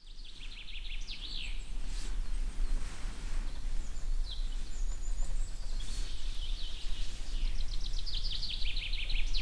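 Songbird singing: a rapid trilled phrase at the start and a longer one near the end, with scattered chirps between, over a steady low rumble.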